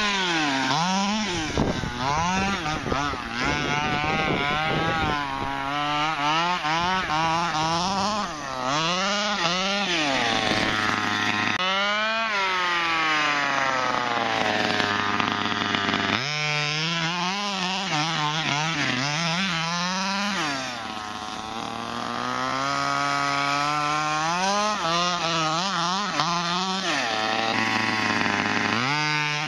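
HPI Baja 5B RC buggy's small two-stroke petrol engine, fitted with a cone intake filter and dual exhaust, revving up and down hard, its pitch climbing and falling every second or two. About two-thirds of the way through it drops for a moment to a lower, quieter steady note before revving up again.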